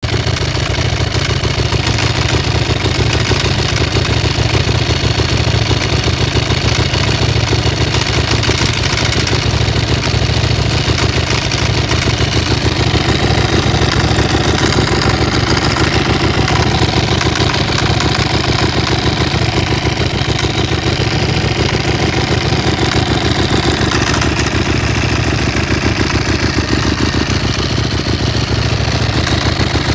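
Aprilia SXV 550's V-twin engine idling steadily with a rattle from the engine, the fault the clip was posted to show.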